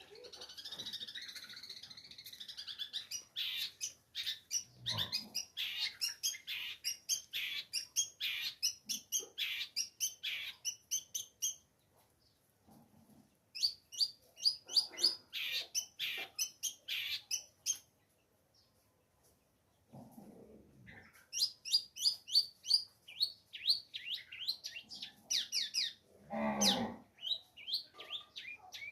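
Long-tailed shrike (cendet) singing in rapid series of short, sharp, high notes, broken by two pauses. A few lower, harsher sounds come in between; the strongest comes near the end.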